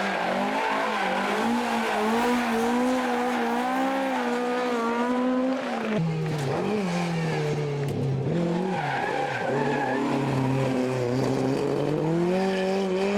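Rally car engine running at high revs, its pitch holding and slowly climbing, then dropping suddenly about six seconds in, wavering, and climbing again near the end.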